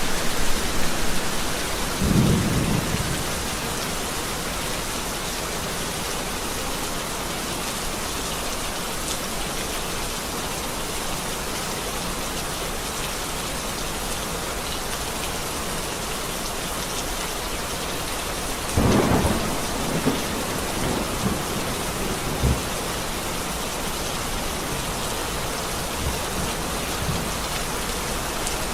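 Steady heavy rain with thunder: a brief low rumble about two seconds in, then a louder clap about two-thirds of the way through that rolls off in a few lower knocks.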